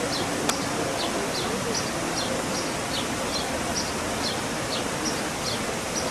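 An animal chirping: short, high, falling chirps repeated evenly, about two or three a second, over faint voices.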